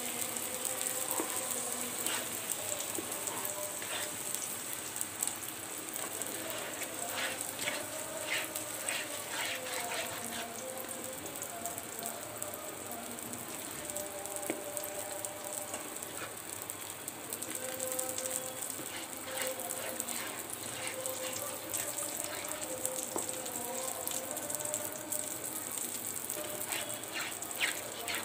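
Chhana mixture with jaggery and milk powder frying in ghee in a pan, with a steady sizzle, while a wooden spatula stirs and scrapes the pan. The scraping comes in runs of quick strokes, about a third of the way in, again past two thirds, and near the end.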